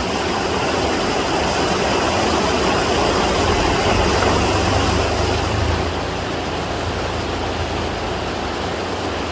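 Mountain waterfall and stream in monsoon flood, rushing water making a loud, steady noise, with a deeper rumble swelling for a couple of seconds in the middle.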